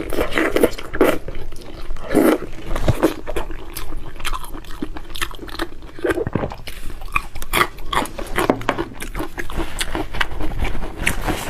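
Close-miked eating: biting into and chewing a piece of red-glazed braised pork, with wet smacking and many short clicking mouth sounds.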